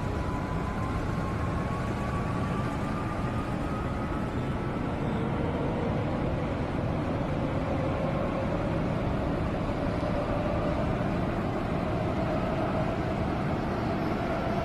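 Seoul Metro Line 2 subway train running between stations, heard from inside the car: a steady rumble of wheels on the rails, with the traction motors' whine rising slowly in pitch as the train gathers speed.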